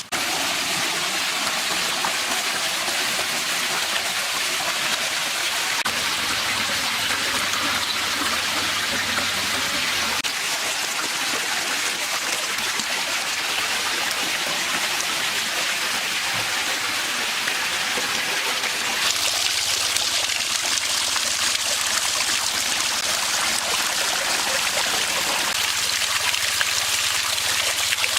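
Steady running water, trickling and splashing, as from a small artificial waterfall or stream; the sound shifts slightly brighter about two-thirds of the way through.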